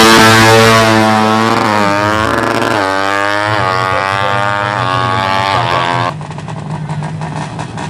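Four-stroke 200cc underbone drag bike accelerating hard up through the gears, its engine pitch climbing and dropping back at each of several quick shifts. About six seconds in the sound cuts off abruptly to a quieter steady drone.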